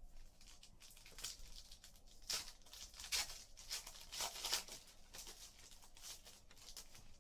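Foil trading-card pack wrappers being torn open and crinkled, in a series of short, irregular rips and crackles that are loudest in the middle.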